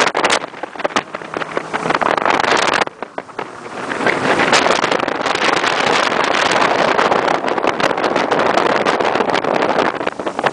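Wind buffeting the microphone over the rush of water from a motorboat under way. The buffeting drops off briefly about three seconds in, then a steady loud rush takes over.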